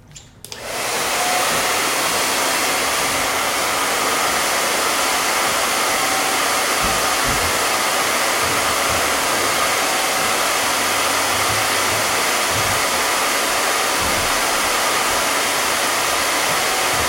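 Handheld hair dryer switched on about half a second in, then blowing steadily.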